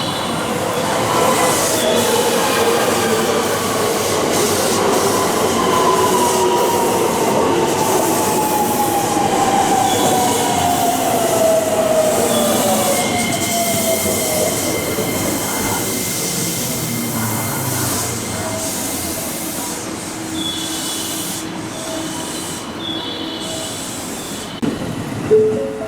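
An electric commuter train pulling into a station platform and braking. Its motor whine falls steadily in pitch as it slows, over high, thin squeal tones from the wheels and brakes.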